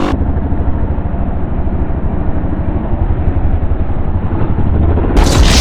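Wind buffeting a helmet or bike-mounted camera microphone while riding a Yamaha WR450F dirt bike, a heavy, uneven low rumble with the engine muffled underneath. About five seconds in, a sudden louder rush of wind noise cuts in.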